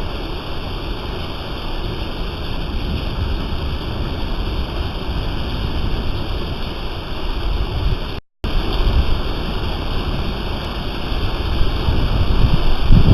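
Steady rain, a continuous even hiss with a low rumble underneath. The sound cuts out completely for a split second about eight seconds in.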